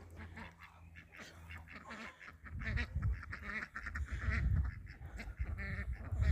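Domestic ducks quacking repeatedly, starting about two seconds in, over a low rumble.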